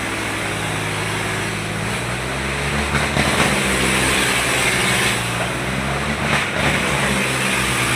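Diesel tractor engine running hard, a steady low drone with a shifting pitch, under a wash of crowd and outdoor noise.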